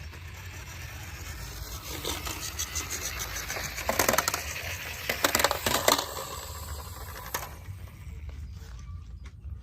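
Small hard toy vehicles being handled, scraping and clattering, with bursts of sharp clicks about four seconds in and again around five to six seconds in, over a steady low hum.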